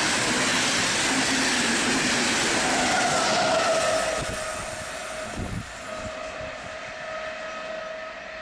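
An Intercity push-pull train of modernised IC coaches with a DB Class 101 electric locomotive at the rear passes at speed: a loud rush of wheels on rail that drops away after about four seconds as the locomotive goes by, leaving a steady high tone that fades as the train recedes.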